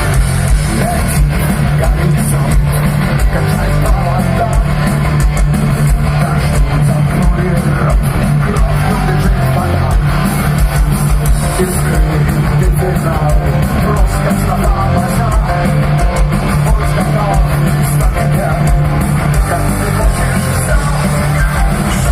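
Rock band playing live: loud electric guitar, bass and drum kit running continuously with no breaks.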